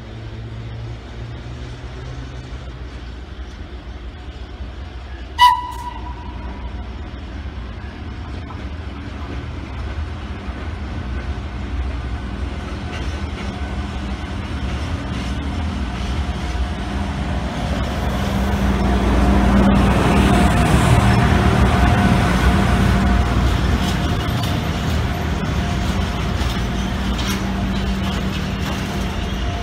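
A train approaching and passing on the line, its rumble building to the loudest about two-thirds of the way through, with a short, high horn toot about five seconds in.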